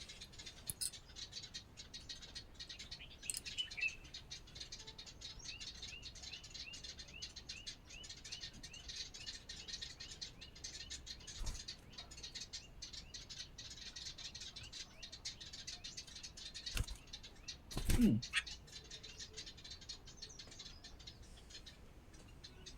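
Small birds chirping: a run of short, evenly repeated chirps over a dense crackle of fine ticks. About three quarters of the way through, one louder sound sweeps down steeply in pitch.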